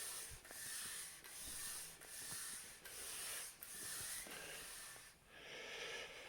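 Freshly assembled Cosworth YB bottom end being turned over by hand: the piston rings rub in the bores with a regular series of dry rasping strokes, a little under one a second, which change character near the end.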